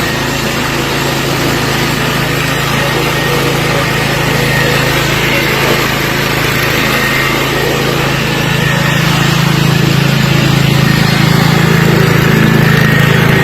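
Small single-cylinder engine of a riding lawn mower running steadily, getting louder about eight and a half seconds in as it is throttled up.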